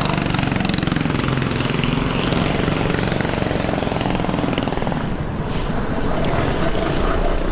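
Small mini bike engine idling steadily close by, with a rapid, even pulsing.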